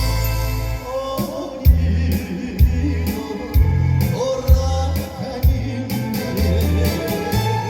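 Male trot singer singing live through a PA over an amplified backing track, with a strong bass beat about once a second.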